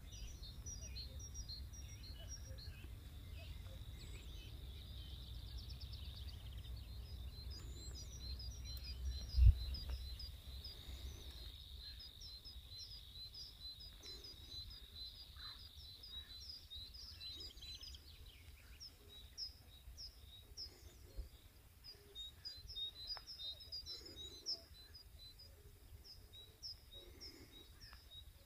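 Birds singing, with many short high chirping notes repeated throughout. Under them, a low rumble fades after about ten seconds, and a single low thump sounds about nine seconds in.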